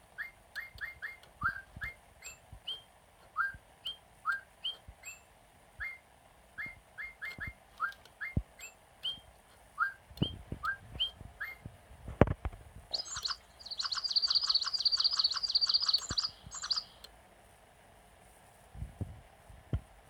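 Bird-like chirps and short rising whistles, repeated in loose runs, then a fast high trill lasting about four seconds. A sharp click sounds just before the trill.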